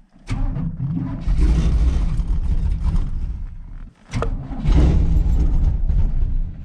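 Cammed 1983 Chevy C10 small-block V8 catching on a cold start with no choke and running under throttle. It drops out about four seconds in, then fires and runs again before falling off near the end: it will not yet hold an idle on its own.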